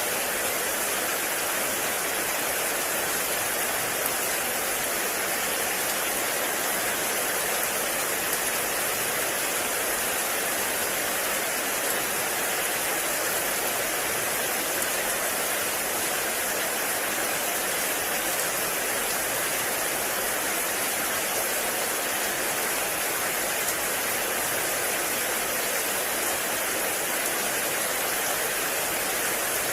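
Heavy rain falling steadily on a forest, an even hiss with no breaks.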